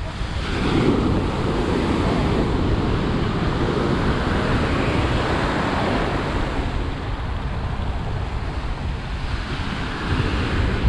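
Ocean surf washing on the beach in swells, with wind buffeting the microphone.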